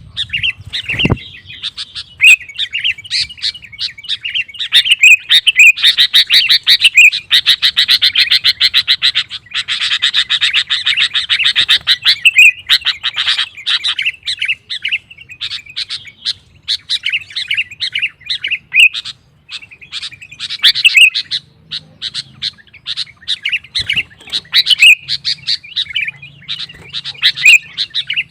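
Sooty-headed bulbul (kutilang) singing vigorously in repeated short whistled phrases. A stretch of fast, harsh chattering runs from about six to thirteen seconds in.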